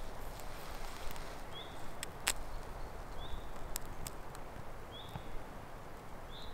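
Quiet woodland ambience: a bird repeats a short, high call about every one and a half to two seconds. A few small sharp clicks sound among it, the strongest a little past two seconds in.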